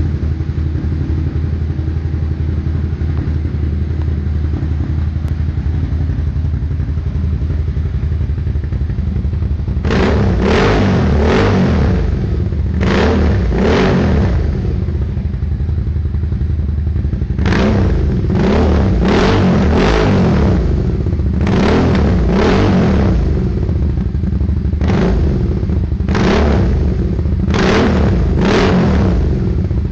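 Suzuki SV650's V-twin engine breathing through a Hashiru aftermarket exhaust. It idles steadily for about ten seconds, then is blipped repeatedly in quick revs, often two or three in a row, until the end.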